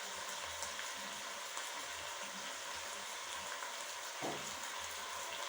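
Kienyeji chicken pieces frying in a pot with paste and stock, giving a steady sizzle. There is one short knock a little over four seconds in.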